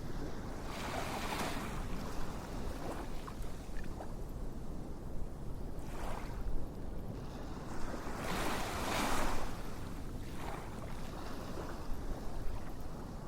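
Ocean surf ambience: waves washing in and drawing back, a swell of hiss every few seconds over a steady wash.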